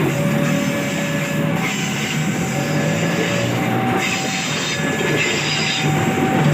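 A train running past on the rails: a steady rumble of wheels, with thin squealing tones from the wheels that come and go every second or so.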